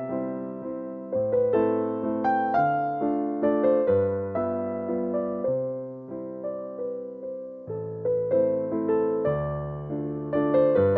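Background music: a gentle solo piano waltz in A minor, single notes struck and dying away over low bass notes.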